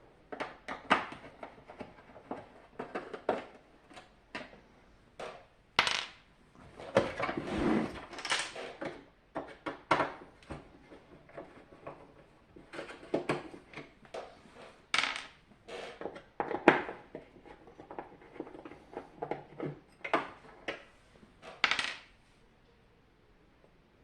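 Irregular clicks, knocks and clatter of small hard parts and tools being handled while a SilverCrest SLE 450 A1 dehumidifier is taken apart, with a longer sliding sound about seven seconds in.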